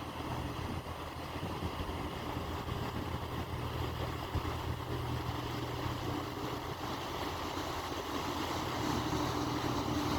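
Engines of the high-speed ferry Sea Lady running as it comes into port: a steady low hum with a constant tone, growing slightly louder near the end.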